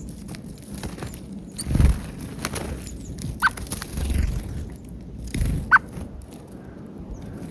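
Small wild birds at a peanut feeder: two short chirps, faint high calls, and a few low dull thuds.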